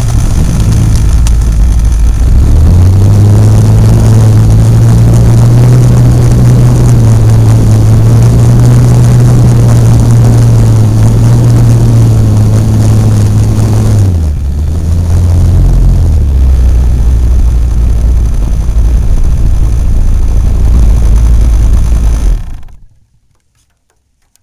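A Hobbistar 60 RC model airplane's engine and propeller heard close up from on board, running loud and steady. The engine note rises about three seconds in, drops back about two-thirds of the way through, and the sound cuts off abruptly near the end.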